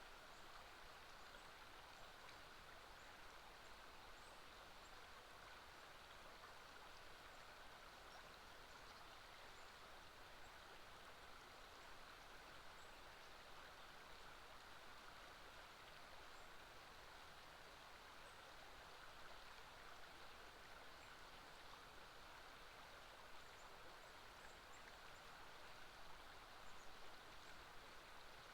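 Faint, steady rushing of a flowing river, with a few tiny high bird chirps now and then.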